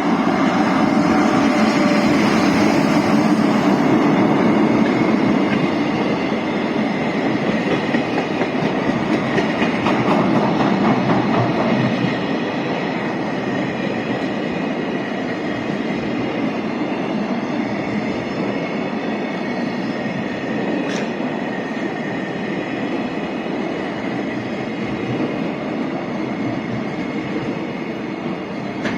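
Freight train rolling past at close range, with continuous wheel clatter from the wagons. It is loudest in the first several seconds, then carries on at a steady level.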